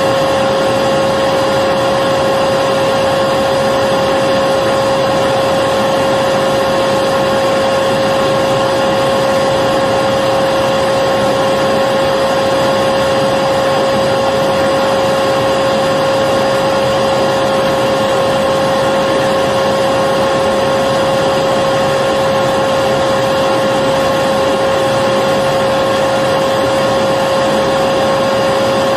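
Electric vacuum cleaner running steadily: an unchanging motor whine over a rushing hiss of air, with no change in speed or load.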